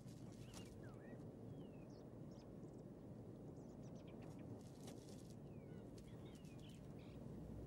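Faint chirping of small birds: a handful of short chirps rising and falling, scattered through, over a low steady background rumble with a few soft clicks and rustles.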